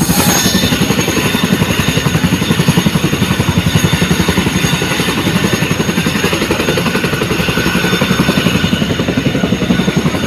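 Chinook twin-rotor helicopter running close by, its rotor blades thudding in a fast, steady beat.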